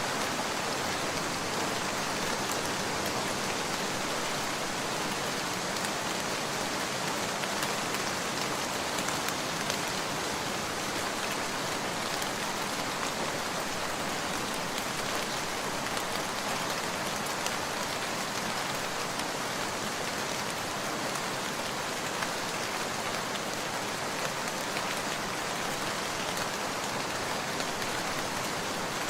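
Steady rain: an even hiss with faint scattered ticks.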